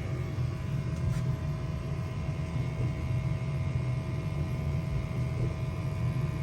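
American Standard gas furnace running after being called for heat: a steady motor hum over a low rumble from its fan and burner operation.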